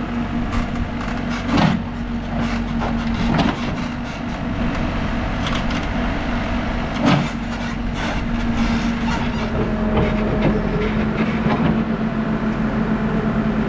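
New Holland backhoe loader's diesel engine running steadily under work, with a few sharp knocks and clunks in the first half as the bucket works through clay and stones. Later a faint whine joins the engine.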